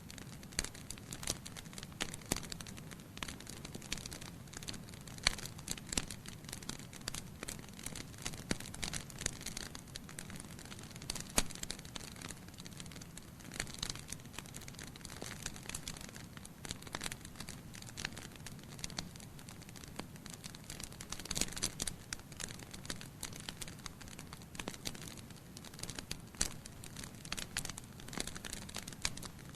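Wood fire in a fireplace, burning logs crackling and popping irregularly over a low steady rush of flame.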